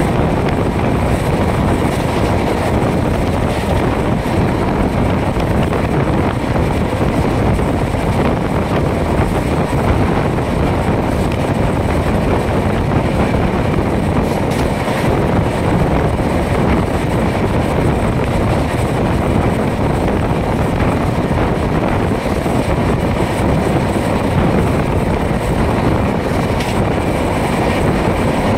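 Express passenger train running at speed, heard from the side of a coach: a steady, loud rush of wheels on rails mixed with wind on the microphone.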